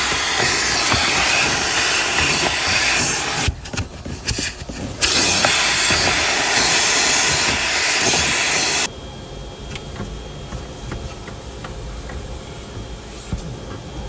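Car wash vacuum hose sucking air as it is worked over the car's interior, a loud steady rush that chokes and sputters about four seconds in. About nine seconds in the rush cuts off suddenly, leaving a much quieter hum with small clicks.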